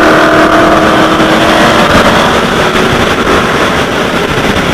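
Dodge Charger Hellcat's supercharged 6.2-litre V8, exhaust open through a muffler delete, running loud at a steady speed. It holds a steady pitch for about two seconds, then turns rougher and noisier.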